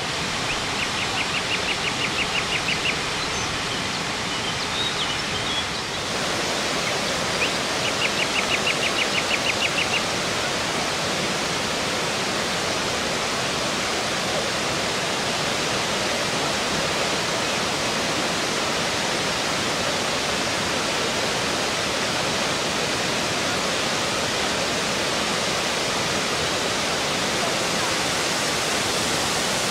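Dzhuryn waterfall's water rushing, a loud steady roar of falling water. Two short runs of rapid, high-pitched ticks sound over it in the first ten seconds.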